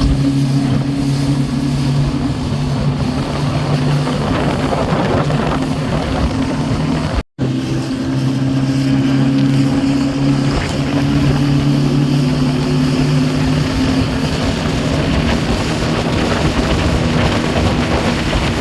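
Motorboat engine running steadily under way, a low hum with wind rushing over the microphone. The sound drops out for an instant about seven seconds in, and the lowest part of the engine hum fades away in the second half.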